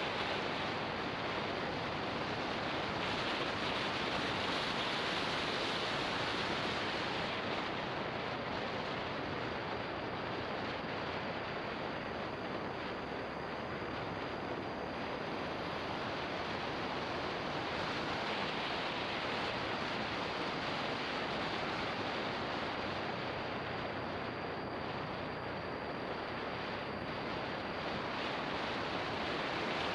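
Steady wind rush over an action camera's microphone on a moving motorbike, swelling and easing gently, with a faint low engine hum underneath.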